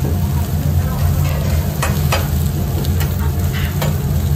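Street food frying and sizzling in a hot pan while it is stirred, with a few sharp clicks of a metal utensil and a steady low hum underneath.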